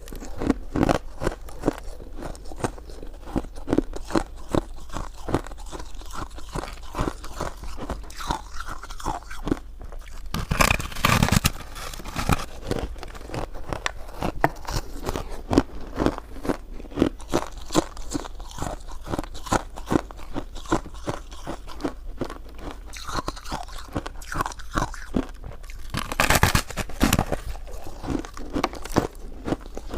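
Close-miked chewing and biting of food: a dense run of small crunching clicks, with louder bites about eleven seconds in and again near the end.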